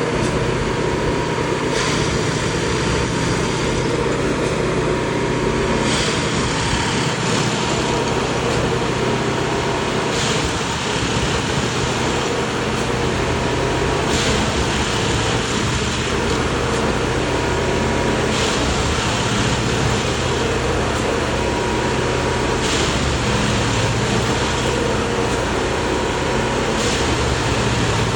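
Railway track tamping machine at work: its engine runs steadily with a constant hum, and a short burst of noise comes about every four seconds as the work cycle repeats.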